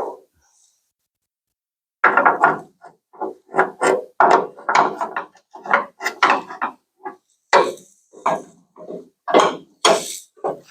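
Irregular series of metal knocks and clanks, one or two a second, from working a dent out of a pickup's steel bed panel with a stud-welder dent puller.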